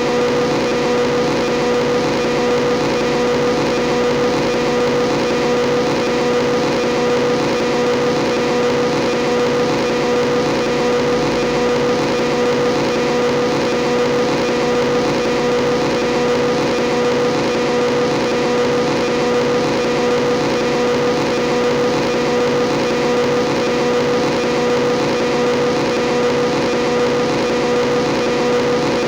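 Motorcycle engine running at a steady, unchanging speed, a constant droning note that does not rise or fall.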